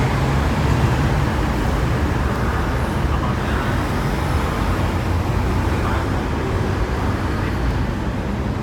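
Hong Kong double-decker tram running along the street, a steady low rumble mixed with road traffic noise.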